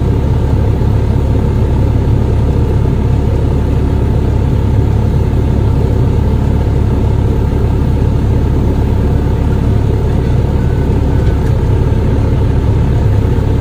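Steady low rumble of a motor vehicle's engine running, unchanging throughout.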